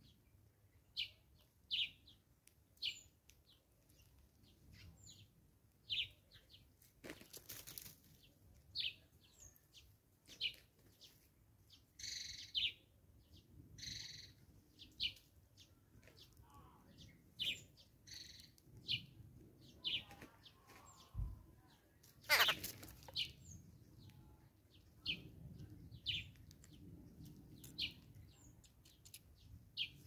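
Bird chirps: short, high chirps repeated every second or two. Two brief rushing bursts break in, one about a quarter of the way through and a louder one about two-thirds through.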